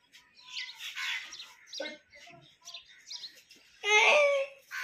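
Small birds chirping with many short, high calls, and one louder, longer call about four seconds in.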